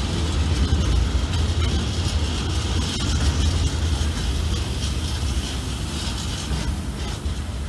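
A train passing through a station: a steady rumble of wheels on the rails that eases slightly near the end.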